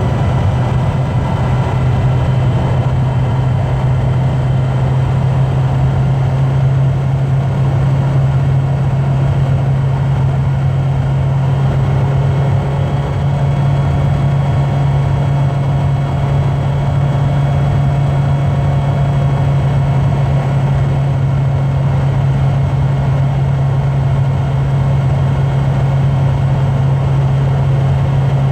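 A car running at a steady cruising speed: a constant low drone of engine and road noise that does not change pitch or level.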